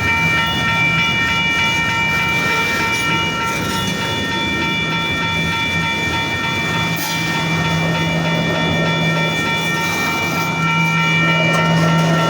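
Double-stack intermodal freight train rolling slowly to a stop, its cars rumbling and clattering, over the steady high ringing of railroad crossing bells clanging.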